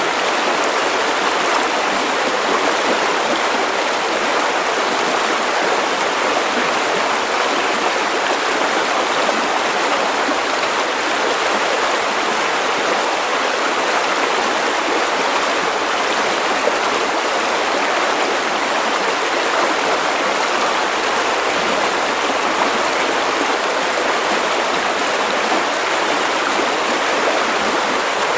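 River water running over stones, a steady rushing and babbling flow.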